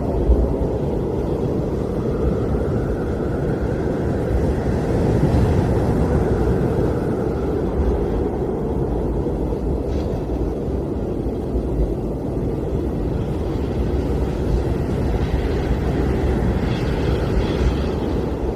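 Blizzard wind blowing, a steady low rushing roar that swells in gusts a few seconds in and again near the end.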